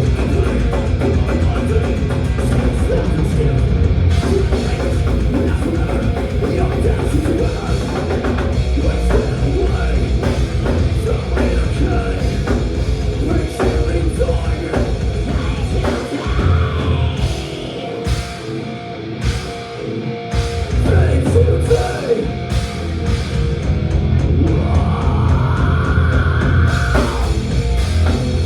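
Thrash metal band playing live, with distorted guitars, bass and a drum kit. A little past halfway the bass and drums drop out for a few seconds, leaving sparse sharp hits, before the full band comes back in.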